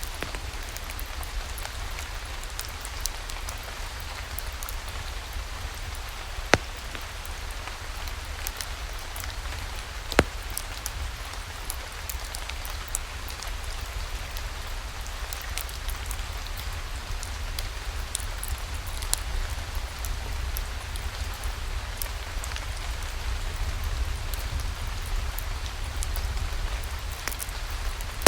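Steady rain falling, with scattered sharp ticks of single drops or crackles through it and a low rumble underneath.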